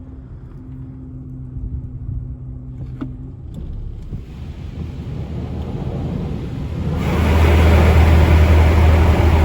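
Car idling in a touchless car wash bay, heard from inside the car, with a single click about three seconds in. From about four seconds in, high-pressure water spray starts against the car and becomes loud with a heavy low rumble about seven seconds in: the undercarriage wash starting.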